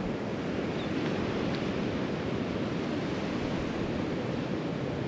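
Steady rush of surf washing onto a beach, mixed with wind noise.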